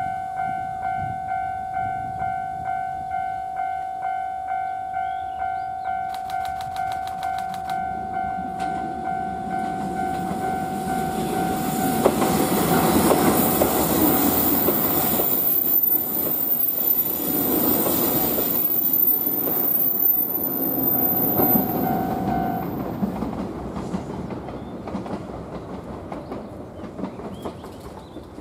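A JR Shikoku 2700 series diesel express train approaches and passes close by. Its engines and wheel-on-rail rumble build to a peak for several seconds and then fade as it goes away. Throughout, a repeating two-tone ringing warning signal, typical of a level-crossing bell, sounds about twice a second and stops shortly after the train has passed.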